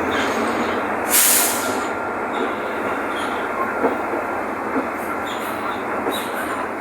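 Mercedes-Benz OF-1519 city bus diesel engine running steadily under way, with a continuous rumble and rattle of the moving bus. A short hiss sounds about a second in.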